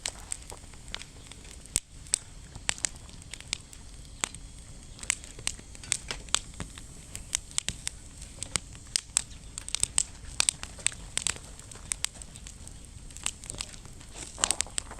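Wood fire crackling in a campfire stand: irregular sharp snaps and pops, several a second, over a low steady background.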